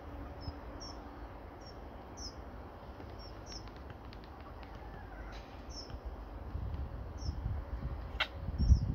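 A small bird chirping over and over, one short high chirp every half second or so, over a low rumble on the microphone. The rumble grows louder near the end.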